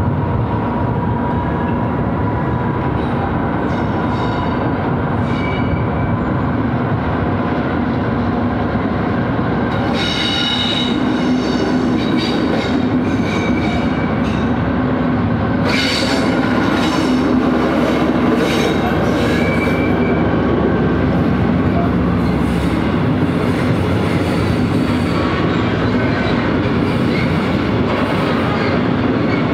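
A train rolling past with a steady heavy rumble. Its wheels squeal in high, ringing tones about ten seconds in and again from about sixteen to twenty seconds.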